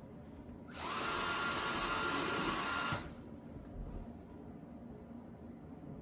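A handheld electric power tool spins up about a second in, runs steadily for about two seconds, then stops.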